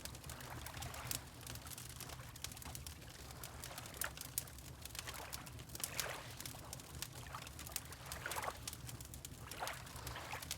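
Wood fire crackling with many small sharp pops over a steady low rumble, and water lapping in short swishes every couple of seconds.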